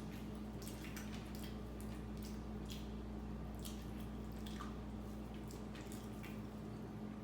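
Someone eating: wet chewing and mouth sounds, short irregular clicks a few times a second, over a steady low hum.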